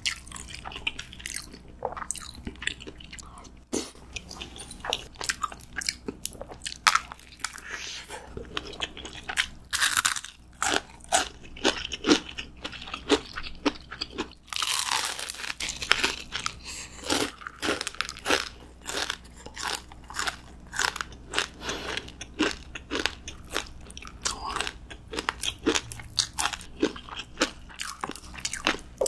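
Close-miked eating of crunchy food: a rapid, irregular run of crisp crunches and bites with chewing, louder in clusters about a third of the way in and around the middle.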